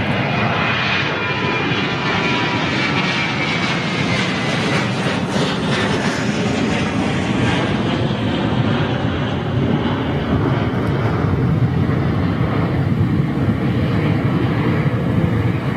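Jet airliner's CFM56 turbofan engines at take-off power as it climbs out low, a loud steady rumble with a high whine that falls in pitch over the first few seconds.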